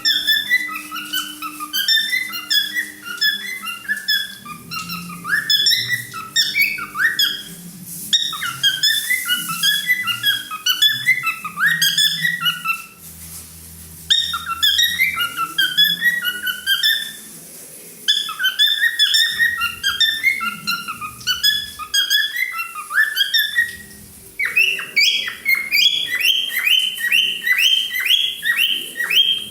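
Cockatiel singing: phrases of quick whistled chirps and warbles, broken by short pauses, ending in a run of rapid, evenly repeated rising whistles.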